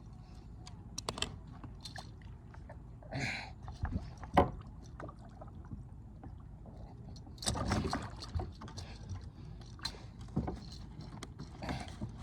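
Scattered knocks and clunks on a kayak with a few short splashes of water, the loudest a sharp knock about four seconds in.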